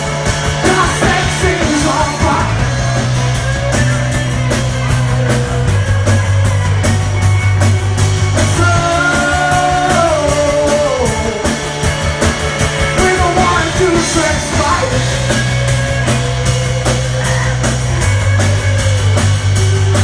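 A live rock band playing a song: a sung vocal line over electric guitars, a bass holding long notes that change every few seconds, and drums with a steady cymbal tick.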